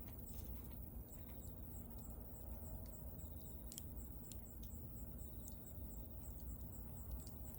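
Wood bonfire crackling with scattered sharp pops over a low, steady rumble, while an insect chirps high and evenly about three times a second.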